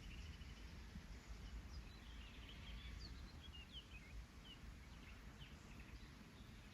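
Faint songbirds chirping, scattered short high notes and quick falling calls, over a low wind rumble.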